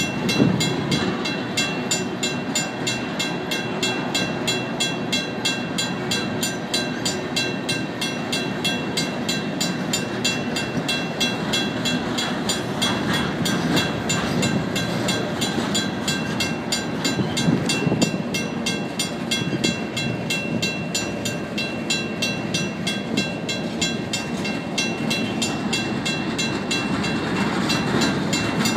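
Empty freight hopper cars rolling past a grade crossing with a steady rumble and rattle, while the crossing's WCH mechanical bell rings in rapid, even strokes, the signal active for the passing train.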